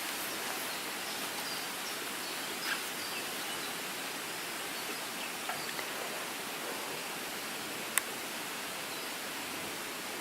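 Steady outdoor background noise with no distinct source, with one sharp click about eight seconds in.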